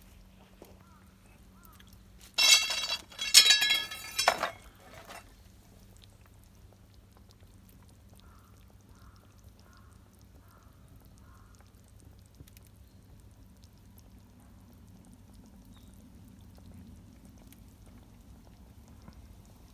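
Two loud, harsh animal calls about two and a half seconds in, followed later by a run of five faint short calls.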